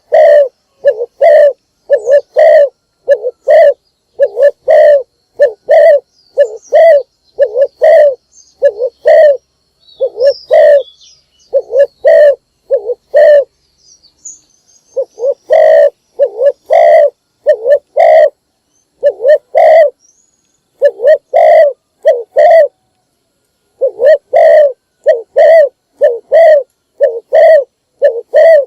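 Spotted dove cooing: a long run of short, evenly repeated coos, about two a second, breaking off for a couple of seconds about halfway through and briefly again later.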